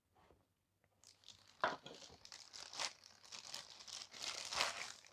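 Plastic packaging crinkling and tearing as it is pulled off a new hair dryer. The irregular rustling with sharp snaps starts about a second in and goes on to the end.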